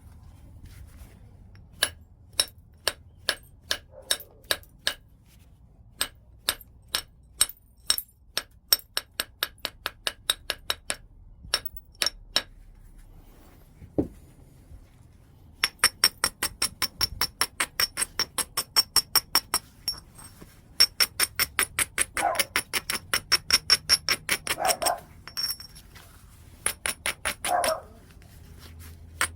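Stone-on-stone strikes while knapping a large piece of white chert: single sharp clicks about a second apart at first, then fast runs of light taps, several a second, with short pauses between the runs. Many of the later taps ring with a high, glassy tone.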